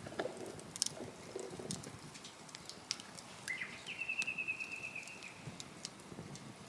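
A bird calling: a short rising note about halfway through, then a fast, even trill held at one pitch for more than a second. Faint scattered clicks and a few low muffled sounds near the start.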